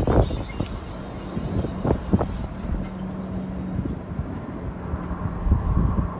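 Diesel train running past, a continuous low rumble with a steady hum and several sharp knocks, the loudest near the start and about two seconds in.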